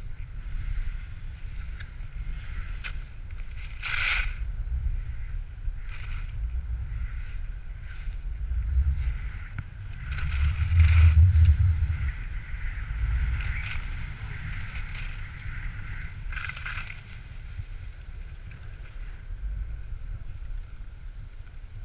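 Skis hissing over snow during a downhill run, swelling at several turns, with wind rumbling on the microphone. The wind is loudest about halfway through.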